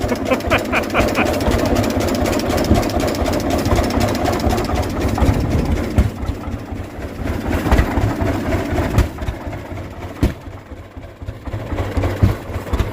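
The two-cylinder kerosene engine of a 1922 Rumely OilPull 16-30H tractor running at a slow, steady idle, its exhaust beats chugging evenly, just revived after sitting for years. A single sharp knock is heard about ten seconds in.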